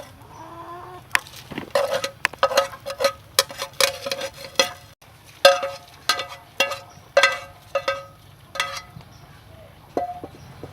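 Metal utensil clinking against a metal cooking pot, about two strikes a second in an irregular rhythm. Each hit rings briefly with the same metallic tone.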